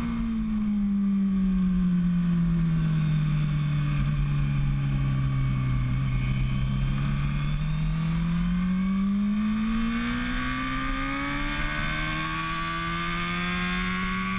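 Racing motorcycle engine on track, its revs falling gradually for about six seconds as it slows, then climbing steadily again as it accelerates.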